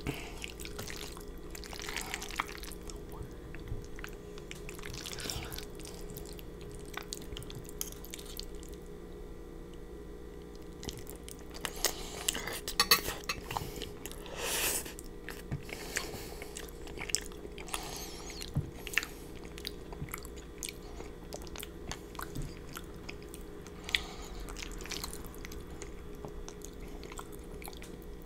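Close-miked wet chewing and slurping of creamy fettuccine noodles, with scattered mouth clicks and the occasional tap of a metal fork on a glass baking dish.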